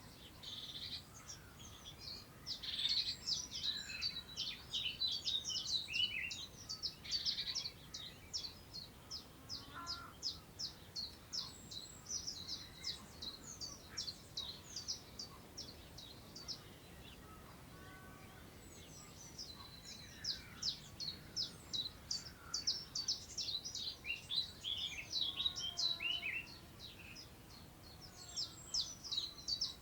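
Birds singing: long runs of rapid, high-pitched twittering notes that break off for a few seconds about halfway through, then resume. Underneath is a faint steady hiss of wind through long grass.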